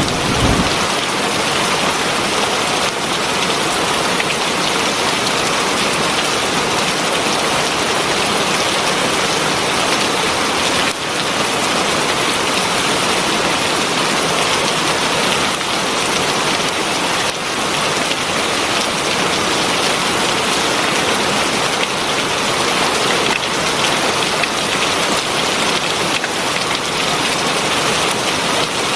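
Heavy rain falling steadily: a dense, even hiss with no let-up. The tail of a low thunder rumble dies away in the first second.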